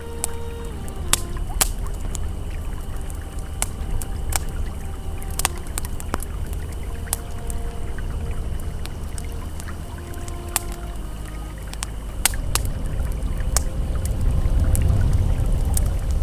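Wood campfire crackling, with sharp pops every second or so, over the steady rush of a flowing river that swells louder near the end. Faint soft held tones sit in the background.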